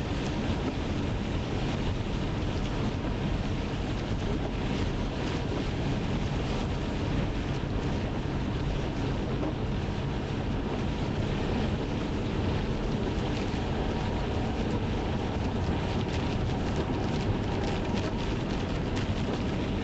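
Steady road noise inside a moving car: a low rumble of tyres and engine with wind noise, unchanging throughout.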